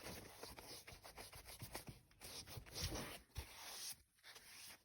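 Damp melamine foam sponge (Magic Eraser) scrubbing a plastic fridge door handle in quick, faint rubbing strokes, with a brief pause about four seconds in.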